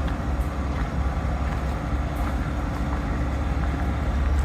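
Large vehicle engine running at idle: a steady low rumble with a faint steady hum above it.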